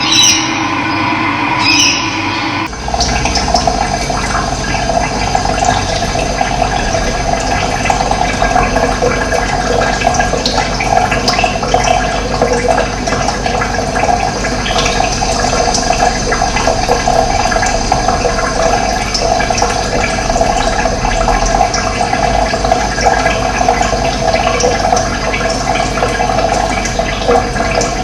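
Running water flowing and gurgling steadily in a continuous rush. About three seconds in, a different, more tonal passage cuts off abruptly and the water sound takes over.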